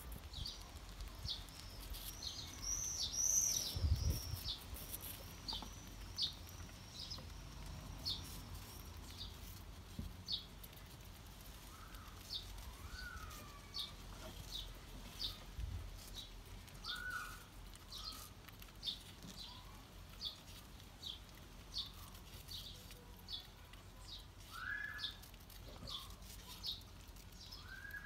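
Small songbirds calling: a short high chirp repeated about once a second, a quick twittering phrase about three seconds in, and a few lower short whistles in the second half. A low bump sounds about four seconds in.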